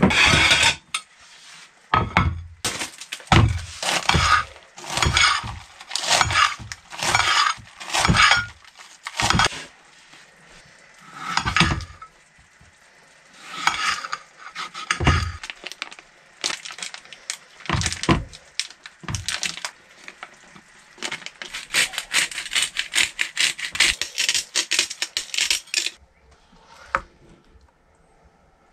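Kitchen prep sounds: a string of knocks and clinks from a knife cutting vegetables on a plate over a wooden board, and utensils against dishes and a pan. Several seconds of rapid fine clatter come near the end.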